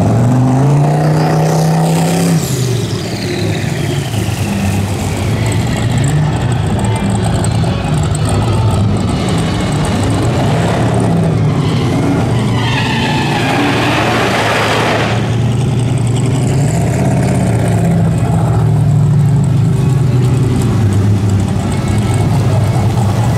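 Drag-racing vehicle engines running and revving up and down repeatedly. A high whine falls in pitch during the first few seconds, and a loud rushing hiss lasts about two seconds midway.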